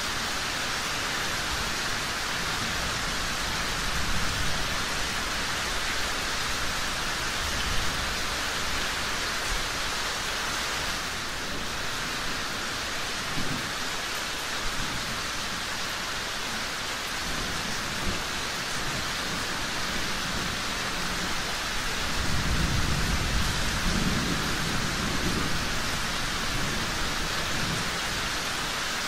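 Steady rain, an even hiss, with low rolls of thunder swelling now and then, the longest and loudest about three quarters of the way through.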